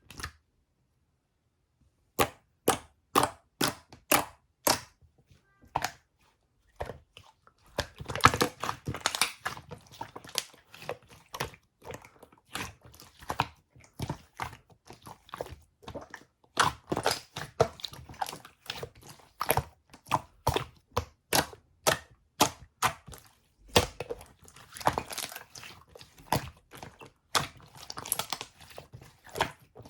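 Glassware and utensils clinking and knocking while a drink is made: a run of sharp separate clinks about two a second, then from about eight seconds in a denser, irregular clatter of clinks and knocks.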